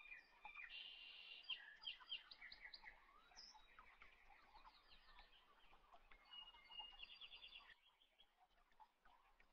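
Faint bird chirps and quick trills in the background over near silence, quieter near the end.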